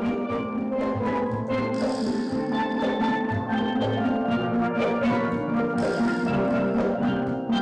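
Steel drum band playing a lively tune: many steel pans sounding pitched, ringing notes over a steady beat, with percussion accompaniment.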